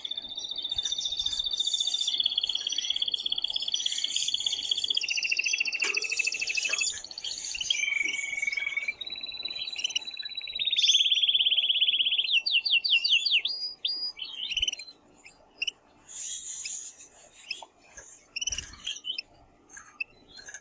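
Male domestic canary singing a long run of rapid trills and rolls that change pitch and pattern every few seconds; about 14 s in the song stops and only scattered short chirps follow.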